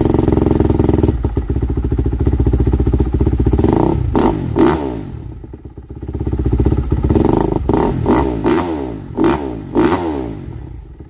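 2020 Kawasaki KX250 four-stroke single-cylinder dirt bike engine running on its first start after sitting all winter, with the throttle blipped several times so the revs rise and fall. It settles to a steady run for about the first second, then revs up and down in quick blips, dropping back toward idle about six seconds in and again near the end.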